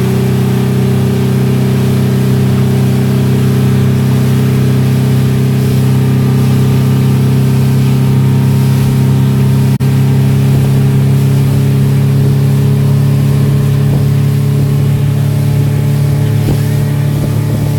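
Motorboat engine running at a steady speed, its note holding level throughout, with a hiss of wind and water over it.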